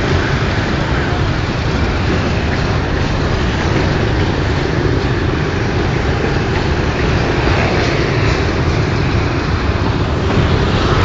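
Long freight train's wagons rolling past on the rails, a steady, loud rumble.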